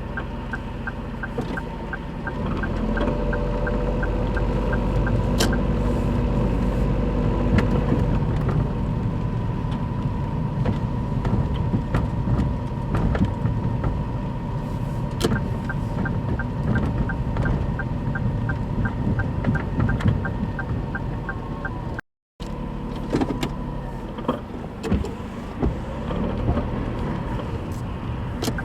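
Daihatsu Move Custom RS (L175S) engine running, getting louder about two seconds in, with a regular light ticking of about three a second in some stretches. The engine noise is raised by a worn, torn engine mount bushing.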